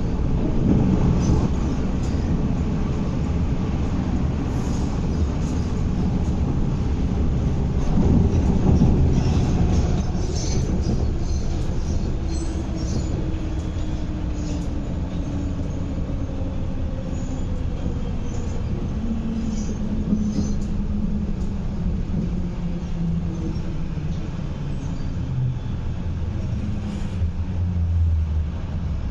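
Inside the car of an MTR East Rail Line MLR electric train running: steady wheel-and-track rumble with light rail clatter. Over the second half the traction motors' whine falls in pitch as the train slows into a station.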